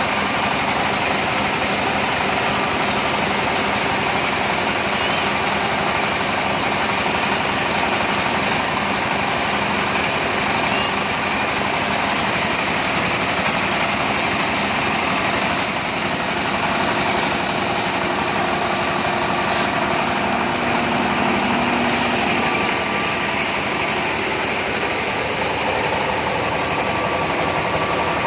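Cassava starch-and-pulp separating machine running steadily, a continuous mechanical drone with no breaks.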